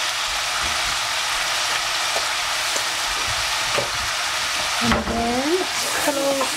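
Courgette pieces and dried cranberries sizzling in oil in a saucepan, a steady even hiss. A wooden spatula stirs the pan near the end, and a voice is heard over it at about the same time.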